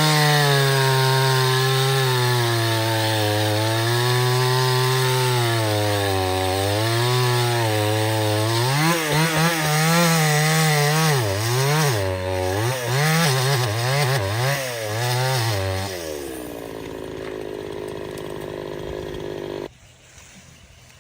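Two-stroke chainsaw running under load while cutting wood, its engine pitch sagging and recovering. In the second half it revs up and down quickly, then its note dies away about 16 s in, and the remaining sound drops off abruptly near the end.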